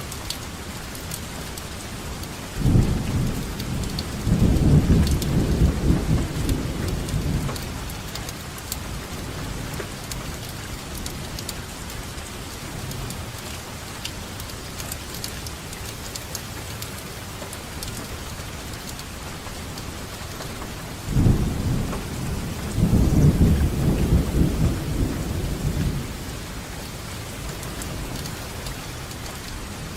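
Steady rain falling, with two rolls of thunder rumbling low, the first about two and a half seconds in and the second about twenty-one seconds in, each lasting about five seconds.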